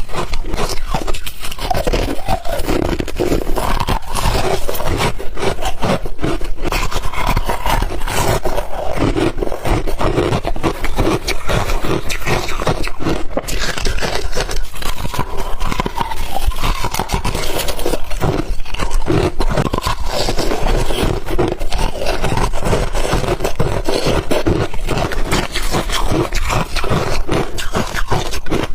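Ice being bitten and chewed close to the microphone: dense, continuous crunching without pause.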